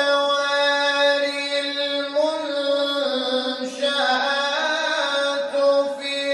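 Mujawwad Quran recitation by a male reciter, drawing out one long melismatic vowel in ornamented tajweed style. The held note steps to new pitches about two, three and four seconds in.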